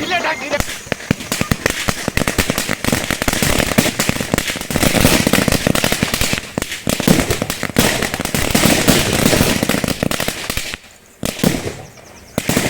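Firecrackers going off in a long run of rapid cracks, then two separate bangs near the end.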